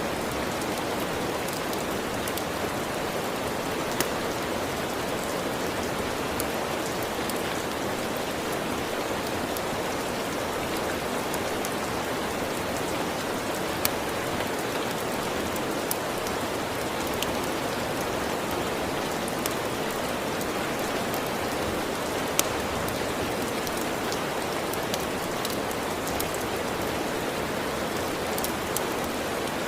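Steady, even rainfall. A few sharp, isolated pops of a crackling wood fire are scattered through it.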